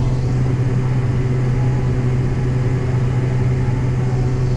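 Diesel engine of heavy farm machinery running at a steady speed, an unchanging low drone with steady tones above it.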